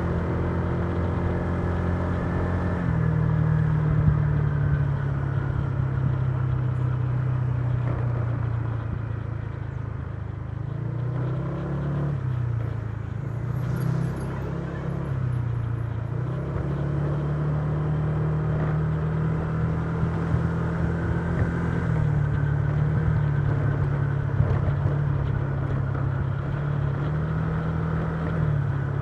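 Honda Giorno 125 scooter's single-cylinder engine running while riding. Its note drops about three seconds in, rises and falls a few times a little before the middle as the speed changes, then holds fairly steady to a cruise.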